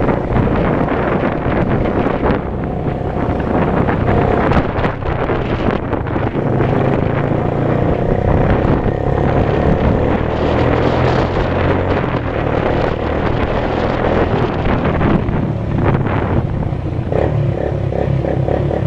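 Motorcycle engine running steadily under way, with heavy wind rushing over the microphone.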